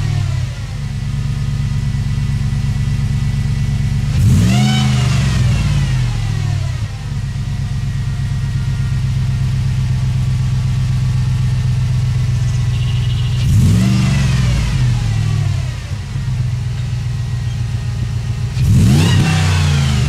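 2007 Jeep Grand Cherokee's 5.7 HEMI V8 idling through a stock exhaust fitted with a Lukey 3" straight-through muffler. It is blipped three times: a quick rev up and back down about four seconds in, another about halfway through, and a third near the end.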